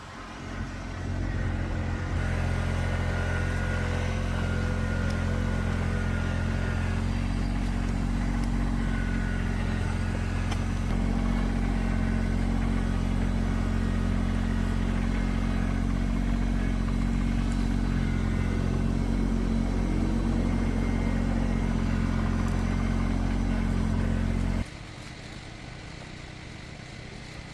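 A motor vehicle engine running steadily at a low, even pitch, then stopping abruptly near the end.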